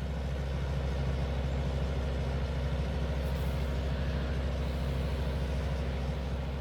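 Heavy truck diesel engine running steadily at a constant speed, a little louder through the middle and easing off near the end.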